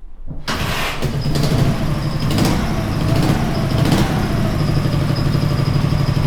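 MT motorcycle's air-cooled flat-twin engine starting on petrol about half a second in. It is revved briefly, then settles into a steady idle.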